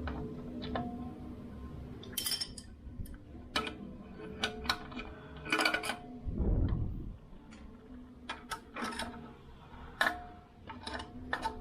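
Metal hand tools clinking and knocking as a bearing puller is set up on a worn crankcase bearing of a Honda Click 150i, some strikes ringing briefly, with a dull low thump about six seconds in.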